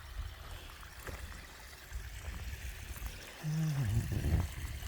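Running water trickling steadily over a low rumble, with a brief voiced murmur about three and a half seconds in.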